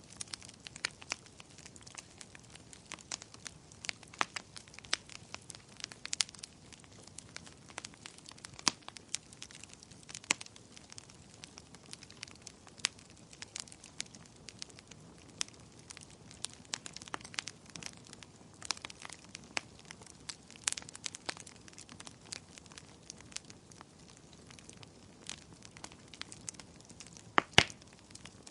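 Wood fire in a fireplace crackling: irregular sharp pops and snaps over a soft steady hiss, with a couple of louder pops near the end.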